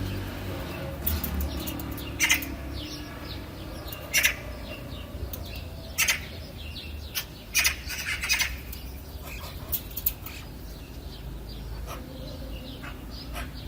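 Birds chirping: short, sharp calls every second or two, some in quick pairs, over a low steady background rumble.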